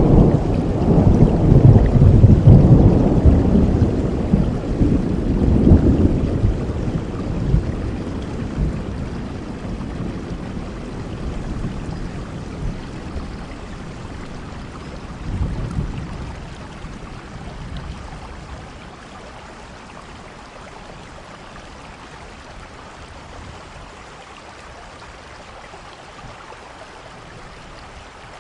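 Steady rain falling, with a long rolling thunder rumble at the start that dies away over about eight seconds and a smaller rumble about halfway through; after that only the even hiss of the rain remains.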